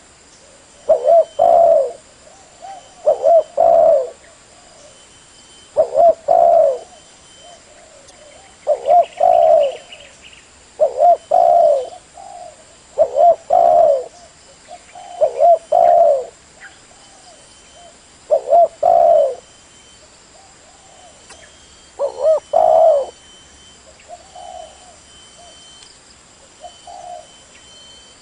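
Spotted dove cooing in a steady series of loud, low coo phrases about every two seconds, with softer, sparser coos near the end.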